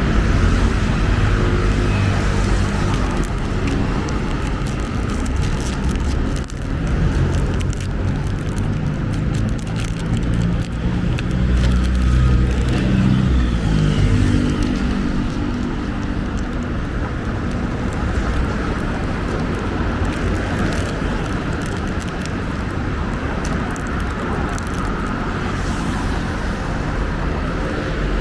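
Busy road traffic: motor vehicles running close by, engine notes rising and falling as they pass, over a steady hum of tyres and traffic.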